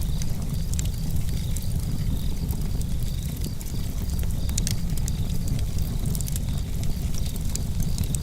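Campfire burning, the wood crackling with frequent sharp pops over a steady low rumble.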